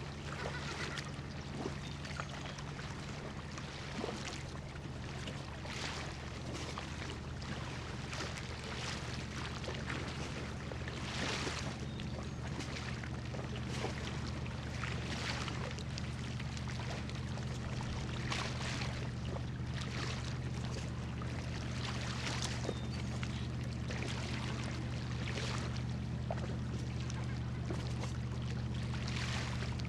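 Water lapping and splashing in irregular surges every second or two, over the steady low drone of an anchored cargo ship's diesel engines.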